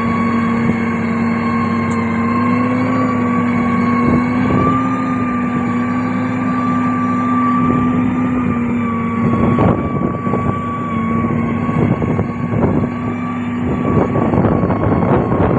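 Heavy diesel road-construction machine running steadily under load, its engine tone and whine holding an even pitch. From a little past halfway, irregular clattering knocks join in.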